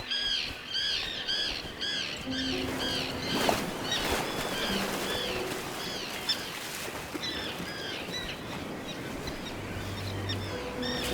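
A flock of terns calling, many short arched calls overlapping, densest in the first few seconds and then more scattered, over soft background music.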